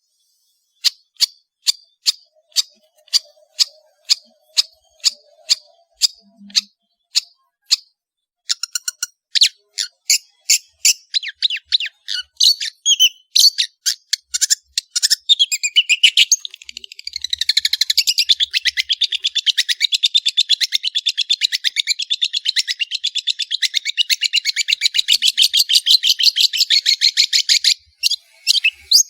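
Long-tailed shrike (cendet) singing. Sharp, high, clicking notes come at about two a second, then quicken into a dense, continuous rapid chatter that breaks off near the end.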